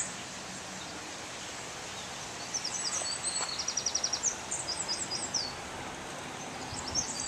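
A songbird sings a string of high chirps and a quick trill over the steady rush of flowing river water, with a single short knock at the very start.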